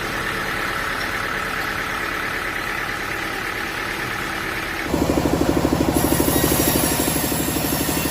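An engine running steadily. About five seconds in, the sound jumps abruptly to a louder engine note with a fast, even pulse.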